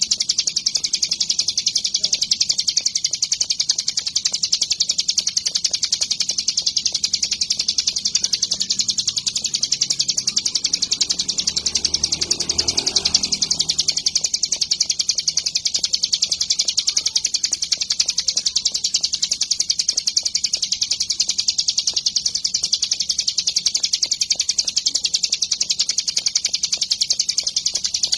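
Ciblek gunung, a mountain prinia, singing a continuous, rapidly repeated high-pitched chattering song without a break.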